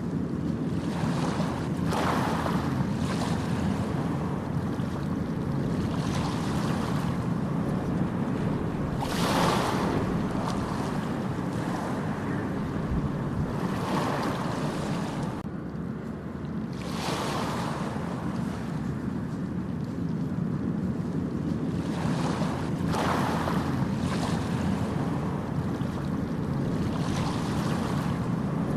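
Ocean waves breaking and washing up a beach, a hissing surge every few seconds over a steady low rumble of surf and wind.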